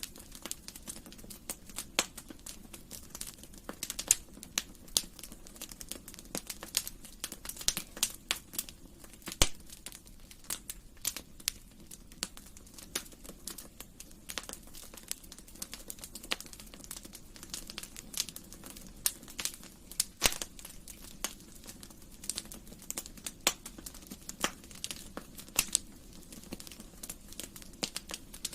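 Wood fire in a fireplace crackling: irregular sharp snaps and pops, a few louder than the rest, over a faint steady sound of the burning.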